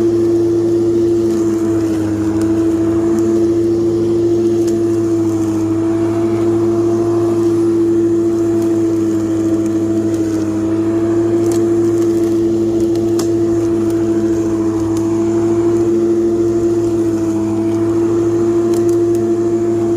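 Ework electric lawn mower running steadily, its motor giving a constant hum with a slight wobble in pitch, and a few faint ticks.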